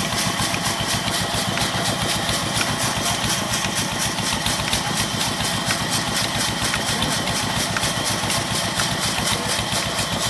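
Single-cylinder Petter-type stationary diesel engine running steadily with an even, rapid beat.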